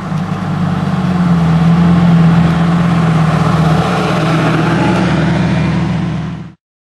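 Heffner twin-turbo Lamborghini Gallardo's V10 engine running as the car drives by, its note building over the first couple of seconds and then holding steady. It cuts off abruptly near the end.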